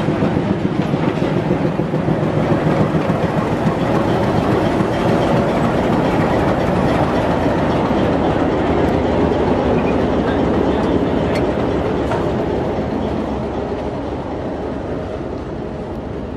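Railway coaches and a locomotive rolling past at close range during shunting, steel wheels clacking over the rail joints. The noise eases off over the last few seconds.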